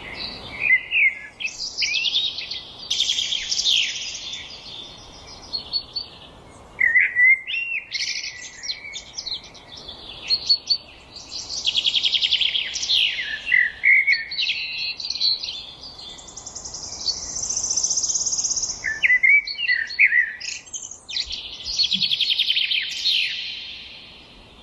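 Several songbirds singing at once: overlapping trills, chirps and whistled phrases, one after another. A long, high, buzzy trill comes a little past the middle.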